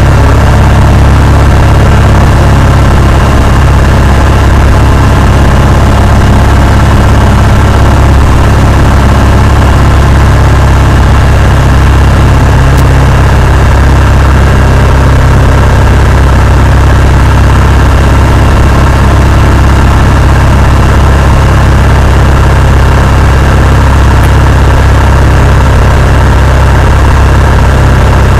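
Cessna 172's piston engine and propeller running steadily, a loud, unbroken low drone.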